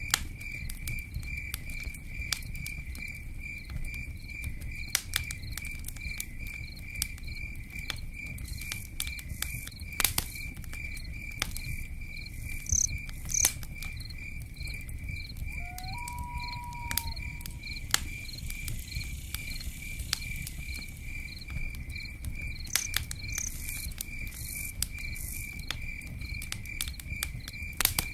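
Crickets chirping in a steady pulsing trill over a low rumble, with scattered sharp crackles and pattering from a campfire and rain. A short whistled note sounds once about halfway through.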